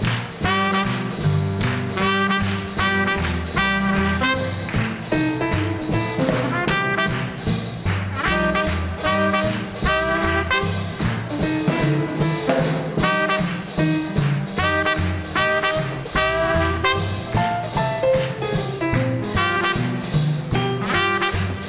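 Small swing band playing live: trumpet and saxophone lines over piano, a stepping upright bass and drums keeping a steady swing beat.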